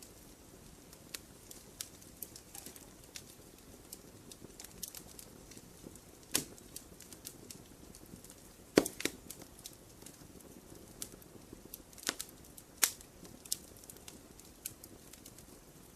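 Campfire burning, wood crackling with irregular snaps and pops over a low hiss, a few louder pops about nine and twelve seconds in.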